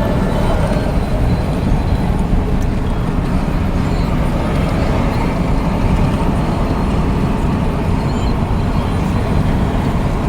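Truck driving at a steady cruising speed, heard from inside the cab: a constant low rumble of engine and road noise with no change in pace.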